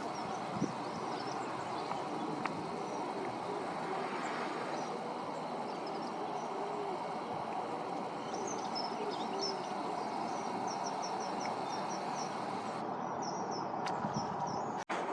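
Outdoor ambience: a steady wash of background noise with small birds chirping repeatedly, most often in the second half. The sound drops out briefly near the end.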